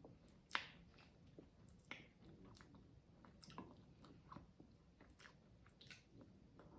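Faint sounds of someone chewing a bite of carrot cake cupcake: soft, irregular mouth clicks, the loudest about half a second in.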